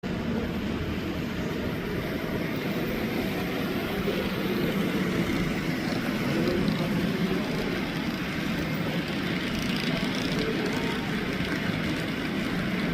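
H0-scale model train running along the track: a steady rumble of its motor and wheels on the rails.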